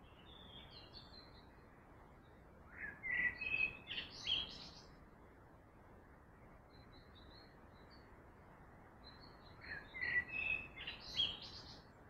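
A songbird singing the same short phrase of quick chirped notes twice, about seven seconds apart, with softer twittering between, over a steady background hiss.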